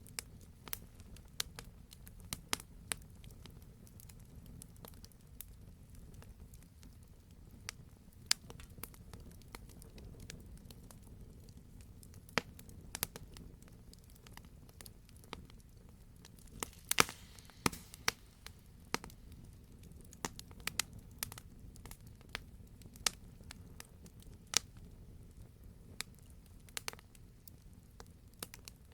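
Wood fire in a fireplace crackling, with irregular sharp pops over a low steady rumble of flame; a quick cluster of louder pops comes just past the middle.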